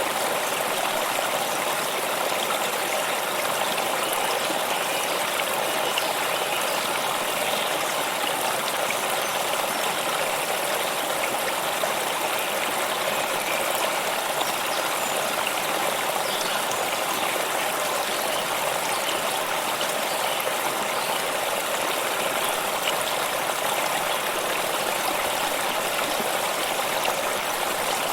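Stream of water flowing over stones, a steady babbling rush with no breaks.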